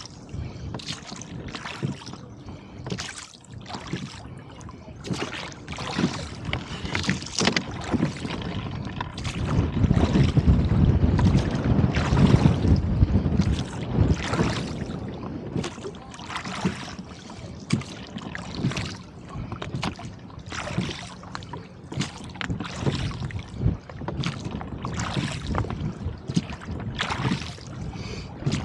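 Rowboat moving through wind-driven chop: repeated water splashes and slaps against the hull. A strong gust of wind buffets the microphone as a loud low rumble for a few seconds near the middle.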